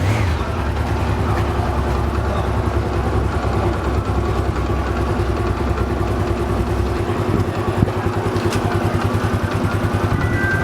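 Daelim Citi Ace 110 motorcycle's small single-cylinder four-stroke engine idling steadily.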